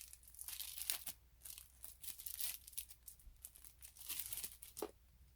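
Packaging being torn open and crinkled by hand, in several short bursts that stop shortly before the end.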